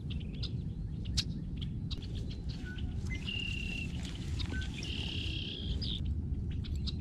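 Birds calling outdoors: a few short whistled notes, then two longer, steady high notes near the middle. Underneath is a steady low rumble, likely wind or handling on the microphone, with scattered light clicks.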